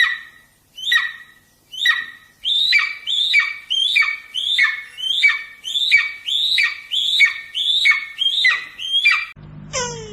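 A bird squawking over and over in short calls, each sliding down in pitch. The calls come about once a second at first, then speed up to about two a second, and stop shortly before the end, where a different sound with a steady low hum comes in.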